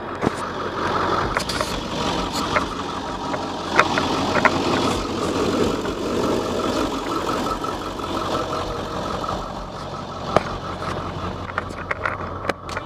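Ford 7.3L Powerstroke V8 turbo diesel running steadily, with a few sharp clicks or knocks over the engine noise.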